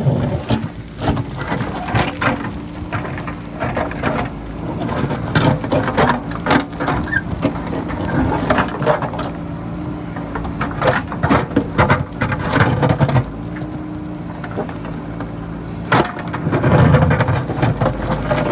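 JCB backhoe loader's diesel engine running under load, with repeated clanks and scrapes as the bucket digs into rock, and the engine swelling louder twice. Wind rumbles on the microphone.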